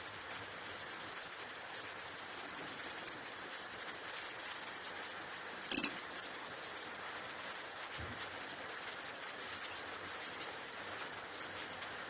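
Quiet workshop handling noise from stripping down an engine: a steady faint hiss, with one sharp knock a little under halfway through and a soft low thud a couple of seconds later.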